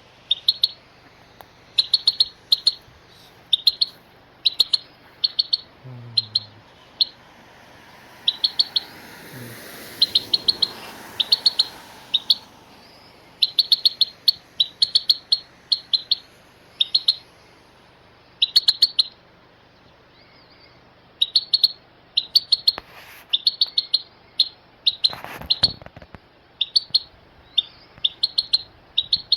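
Small bird chirping over and over in short bursts of a few quick, high notes, roughly one burst a second, with a pause of a couple of seconds past the middle.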